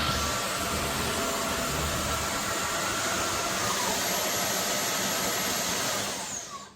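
Roborock F25 GT cordless wet-dry vacuum mop running steadily with a whooshing hum, then switched off near the end, its motor whine falling in pitch as it winds down.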